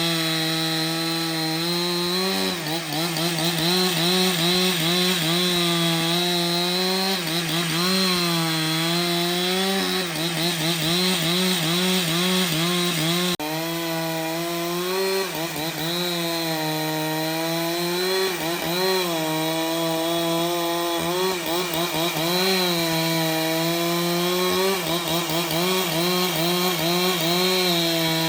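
Chainsaw running at high revs as it cuts through wood. Its engine pitch sags and recovers every second or two as the load on the chain changes, with a brief drop about halfway through.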